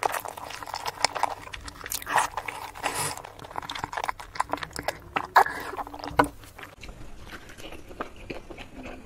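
Close-miked eating sounds: soft chewing and wet mouth clicks on sauce-coated boiled eggs, with a few sharper smacks. Near the end it changes to quieter chewing of fried egg.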